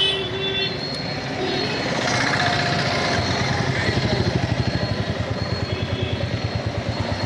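Motorcycle engine running, its exhaust beat becoming louder and plainer about three seconds in.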